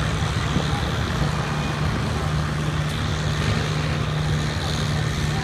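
Farm tractor engine running steadily, a low drone.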